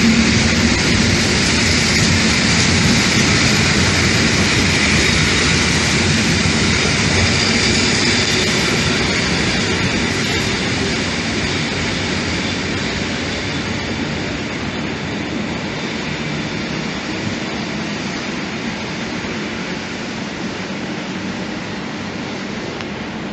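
A train rolling past on the rails, a steady rumbling noise of wheels and carriages that slowly fades as it moves away.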